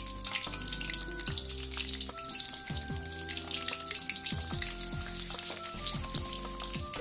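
Eggplant pieces deep-frying in hot oil in a wok: a steady, crackling sizzle. Background music with a beat plays over it.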